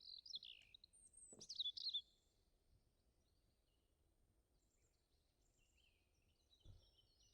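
Faint bird chirps: short, high, gliding notes in the first two seconds and again more faintly near the end, with a single soft click about a second and a half in.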